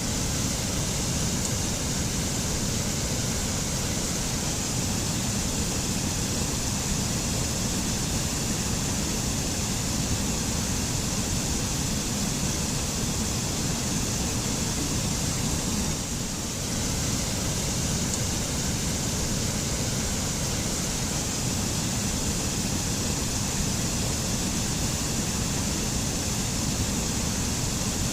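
Mountain waterfall in a forest, water falling and crashing in a steady rush, with a brief dip in level about halfway through.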